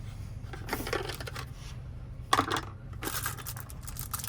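Key blanks and small parts clinking and rattling against each other as they are sorted through by hand in a container. The clinks come in irregular bunches, the loudest about halfway through, over a steady low hum.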